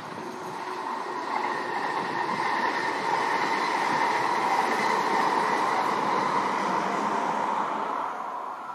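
SJ X2 (X2000) electric high-speed train passing by. A rolling rush with a steady whine in it swells to its loudest midway and fades away near the end.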